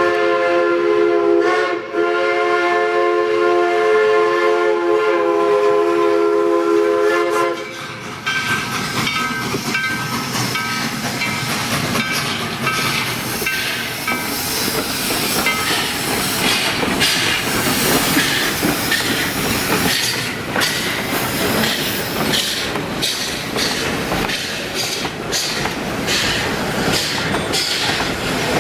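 Steam locomotive whistle sounding a chord of several tones, with a brief break about two seconds in, then held until it cuts off about seven and a half seconds in. After that a train rolls by, its wheels clicking over the rail joints.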